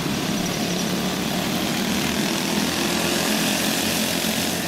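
Several racing go-kart engines running together as the karts lap a dirt oval, a steady buzzing drone whose pitch wavers slightly as they go through the turns.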